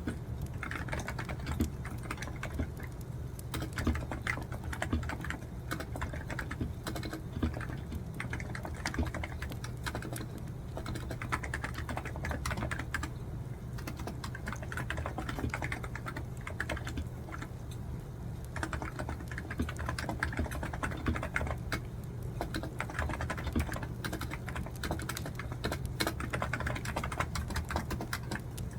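Continuous typing on a computer keyboard, a dense, irregular run of key clicks, over a steady low hum.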